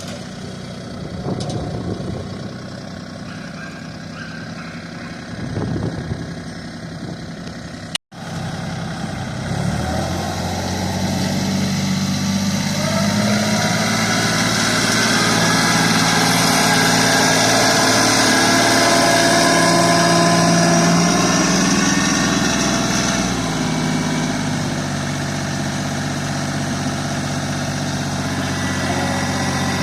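Tractor engine running. The sound cuts out sharply about eight seconds in and comes back louder, with the engine note shifting up and down as the tractor works.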